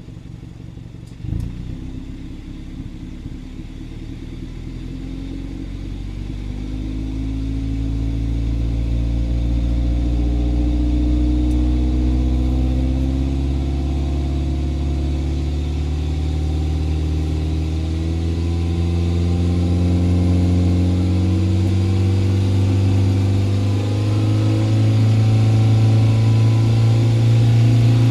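BMW 320i's B48 2.0-litre turbocharged four-cylinder engine and exhaust running, the engine note rising slowly and steadily in pitch, with a further step up about 24 seconds in. A single sharp knock comes about a second in.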